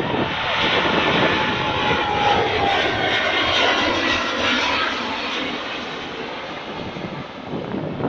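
Jet airliner's engines running loud as it passes, with a faint slightly falling whine; loudest in the first few seconds, then slowly fading.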